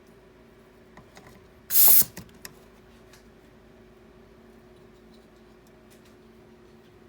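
A short, loud hiss of refrigerant gas escaping from an air-conditioning charging hose, followed by a few small clicks, over a faint steady hum.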